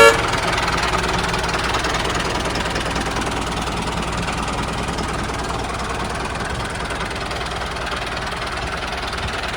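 Mini tractor engine running steadily with an even, rapid chugging.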